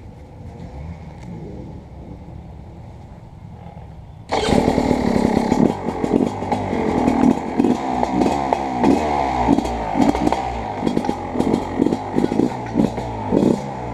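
Beta 300RX two-stroke dirt bike engine, running quietly for about four seconds, then suddenly much louder as it is ridden hard, its revs rising and falling, with clattering throughout.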